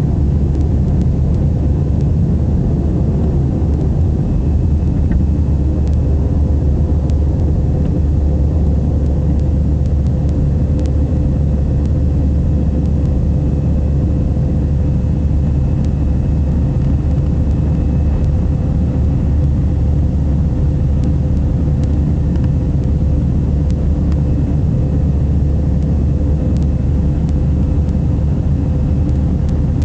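Airbus A320 engine and airflow noise, a steady loud rumble with a steady whine running through it.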